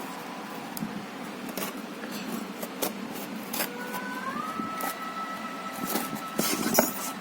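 A cardboard delivery package being torn open and handled, with rustling and scattered sharp clicks and snaps. A thin steady whistle-like tone starts a little after halfway and steps up slightly in pitch.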